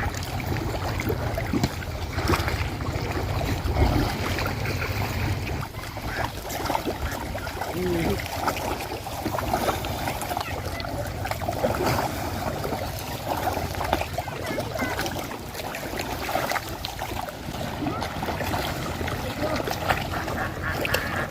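Ducks quacking over outdoor background noise, with a low rumble through the first few seconds; the quacking is clearest near the end.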